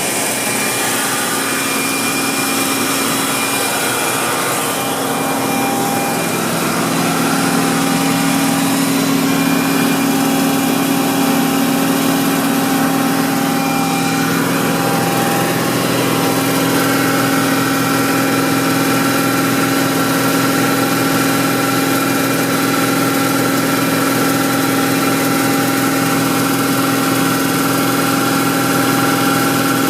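BMW M60 V8 engine running at a steady 2500 rpm, with an erratic, irregular ticking over the engine's steady sound.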